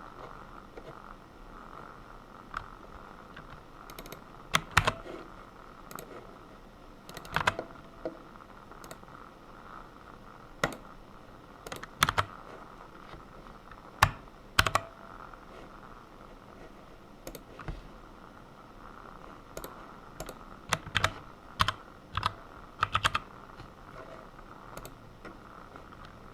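Computer keyboard being typed on in irregular short bursts and single keystrokes, with pauses between, over a steady faint background hum.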